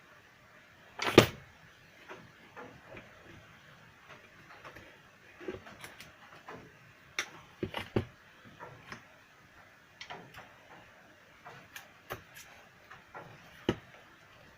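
Scattered clicks and knocks of small hard objects being handled during bench work, with one loud knock about a second in.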